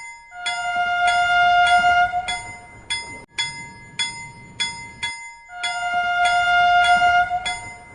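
Bright bell chimes struck in a quick repeating tune, each strike ringing briefly, with a held two-note tone sounding twice under them.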